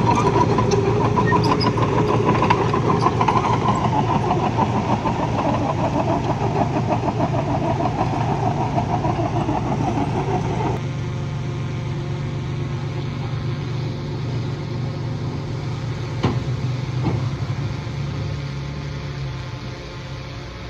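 Heavy earthmoving machine's engine running steadily. Its louder, rougher upper sound drops away about eleven seconds in, leaving a lower steady hum, with a couple of short knocks a few seconds later.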